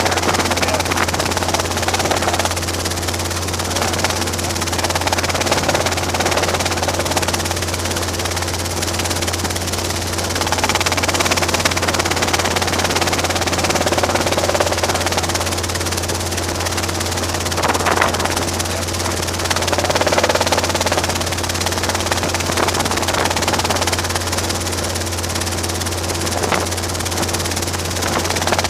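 Robinson R22 helicopter running, heard inside the cabin: a steady, unbroken drone of engine and rotors with a constant low hum and an even rushing noise over it.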